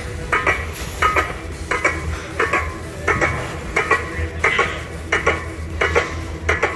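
Loaded weight plates clinking against each other in a steady rhythm, a double clink roughly every 0.7 seconds, with each rep of a heavily loaded calf raise.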